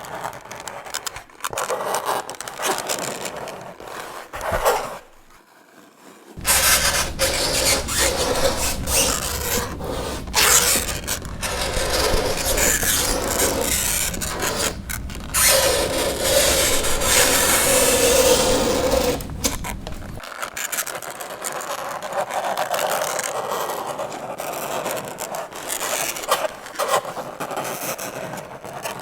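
Fingernails scraping across a chalkboard in repeated scratchy strokes, with a brief lull about five seconds in. A squealing pitch rises out of the scraping in the middle stretch.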